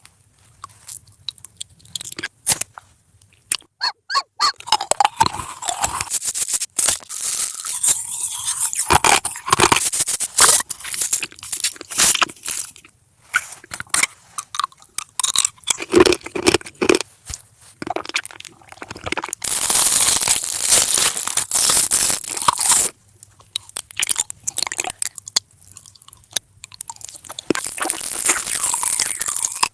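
A person biting and chewing crunchy food close to the microphone: dense runs of crisp crunches, broken by a few short quieter pauses.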